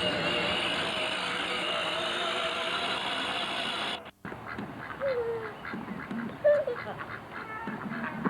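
A motor vehicle engine running steadily, cut off abruptly about four seconds in by a tape edit. After it, a few short quack-like calls, typical of ducks, about a second and a half apart.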